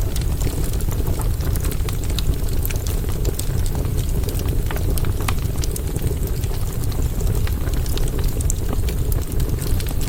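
Campfire burning steadily: a constant low rush of flame with frequent sharp crackles and pops from the burning wood.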